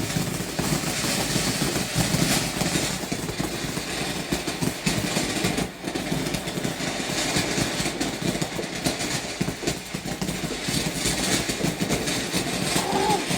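A firework burning with a steady, unbroken hiss and dense crackling.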